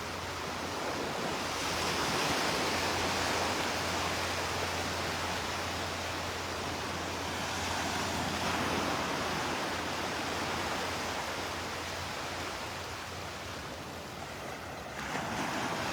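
Gulf of Mexico surf washing onto a sandy beach: a steady hiss of small waves that swells and eases gently, dropping a little near the end before rising again.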